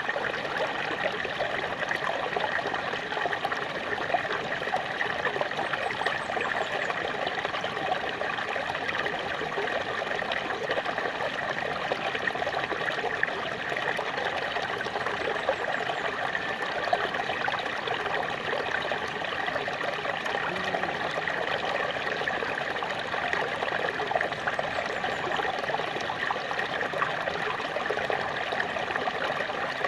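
Small waterfall splashing and trickling steadily, a dense, even rush of falling water with fine splashy detail.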